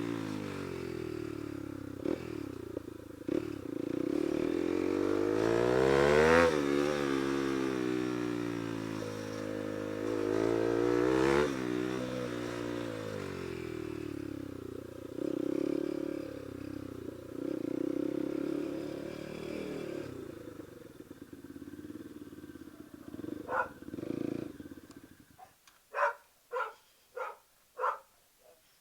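Bajaj Pulsar NS200's single-cylinder engine through an SC Project aftermarket exhaust, revving up and falling back again and again, with a sharp crack at two of the peaks, about six and eleven seconds in. The engine dies away near the end, leaving a run of short, sharp sounds.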